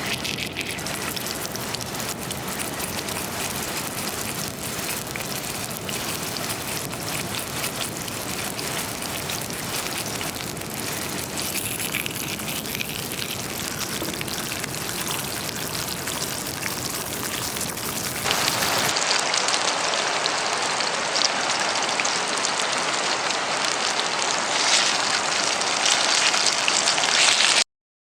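Food sizzling in a frying pan over a campfire: a steady hiss with fine crackles. About 18 seconds in, it changes suddenly to a louder, brighter sizzle.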